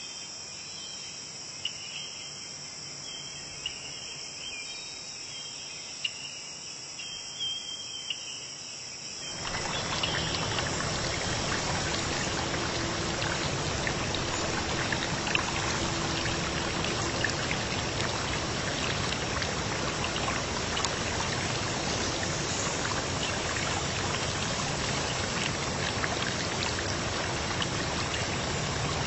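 Insects chirping in a high steady chorus. About nine seconds in it is cut off by a louder, steady rush of water with small splashes and drips throughout.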